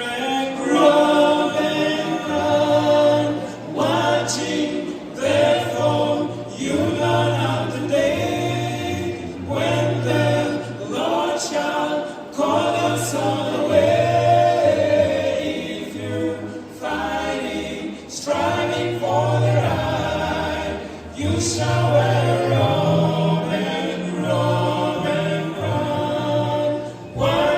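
A cappella gospel vocal group singing in close harmony, a bass voice holding low notes beneath the upper parts.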